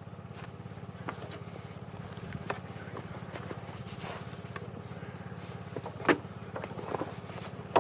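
A small engine running steadily with a low hum, with a few light knocks and clicks from boards and tools being handled.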